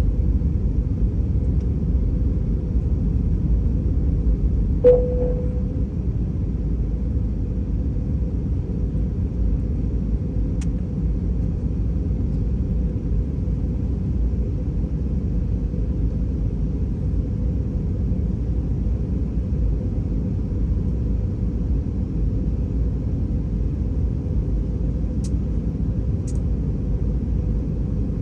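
Steady low cabin rumble of an Airbus A320 moving on the ground after landing. About five seconds in there is a single click followed by a held tone that slowly fades.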